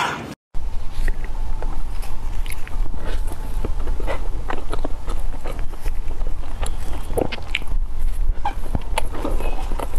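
Close-miked eating: bites into and chewing of thick, soft egg-custard toast topped with sliced almonds, heard as frequent small crackles and clicks from the mouth over a steady low hum. It starts after a short break about half a second in.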